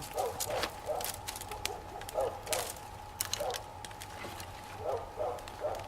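A wood fire of canes and boards crackling, with sharp irregular pops. Short animal calls, each dropping in pitch, come several times in the background.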